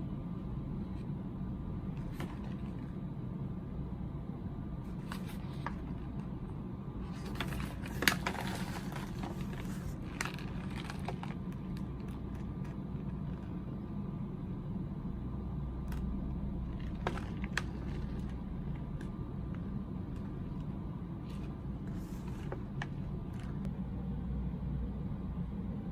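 Snack packaging being handled: scattered crinkles and clicks, busiest with one sharp snap about eight seconds in, over a steady low hum.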